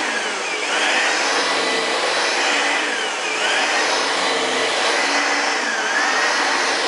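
Late-1980s Singer twin-turbo vacuum cleaner, built by Ryobi, running steadily with its twin-fan power head and beater brush on carpet. A whistling tone in its noise dips and rises in pitch every two to three seconds.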